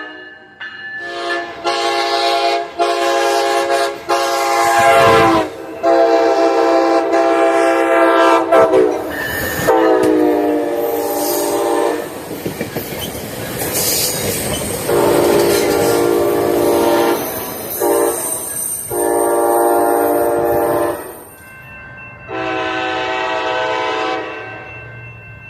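Passenger train sounding its multi-note horn in about eight blasts, some long and some short, the pitch bending down on a few as the train passes. Wheels clack and rumble on the rails between the blasts.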